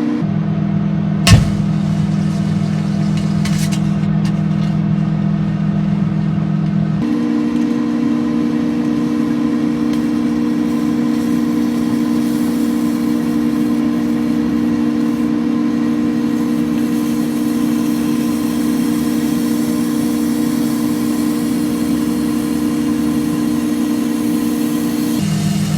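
Microwave oven running with a steady electrical hum, its pitch shifting twice. A single sharp crack about a second in, then a few faint crackles.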